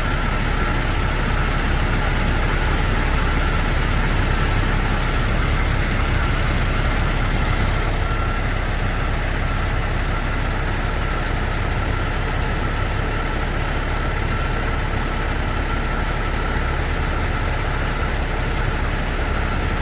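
Heavy truck engine idling steadily, an even low hum with a thin, steady whine above it.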